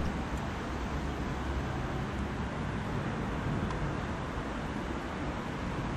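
Steady low rumble of distant traffic and a red double-deck regional train still far off down the straight track, approaching, with no single sound standing out.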